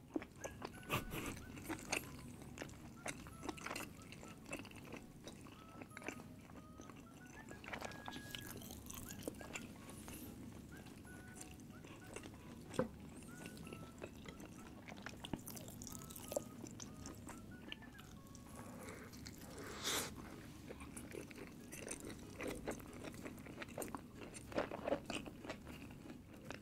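A person chewing and biting food close to the microphone, with many scattered short, sharp clicks.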